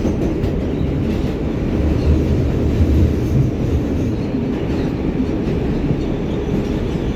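R188 subway car of the 7 train running through the tunnel, heard from inside the car: a loud, steady rumble of wheels on the rails.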